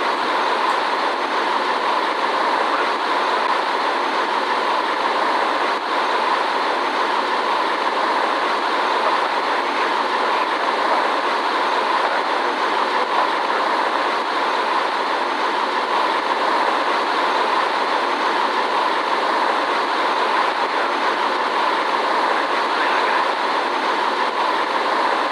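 Steady rushing cabin noise of a Boeing 787 airliner in flight, from its engines and the airflow past the fuselage, unchanging throughout.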